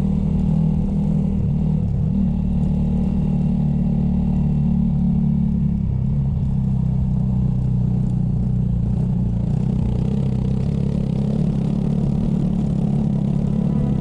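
Motorcycle engine running steadily while riding, its note changing about six seconds in.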